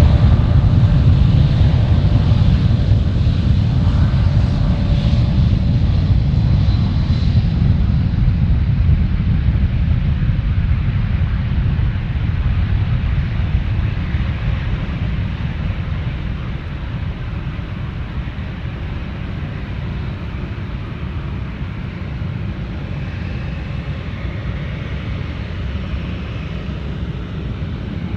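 Jet engines of a large wide-body airliner at takeoff power: a loud low rumble that slowly fades away.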